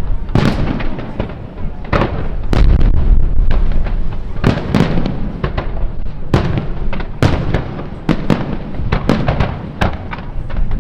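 Aerial fireworks display: an irregular run of loud shell bursts and bangs, several in quick succession at times, over a continuous low rumble.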